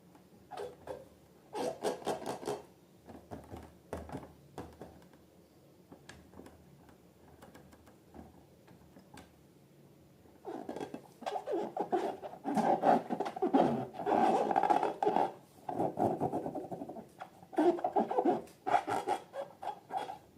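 Balloons and slime being handled close to the microphone: scratchy rubbing and squishing in irregular runs. There is a short flurry about two seconds in, a quieter stretch, then busier, louder handling from about halfway on.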